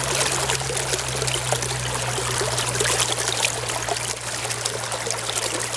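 Water pouring and trickling steadily over a small plastic toy as it is rinsed clean, with a steady low hum underneath.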